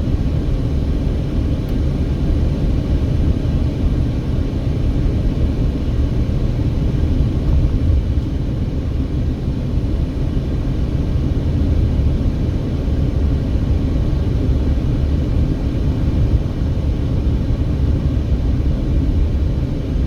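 Steady low road rumble of a car being driven, heard from inside the cabin: tyre and engine noise with no distinct events.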